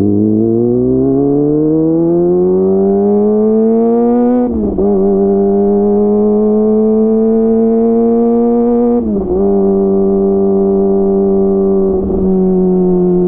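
Kawasaki ZX-25R's 249 cc inline-four running through a DX Generation GPR full-system exhaust, pulling up through the gears: the pitch rises steadily, then drops at quick upshifts about 4.5 and 9 seconds in, and holds fairly steady after the second shift with a brief dip near the end.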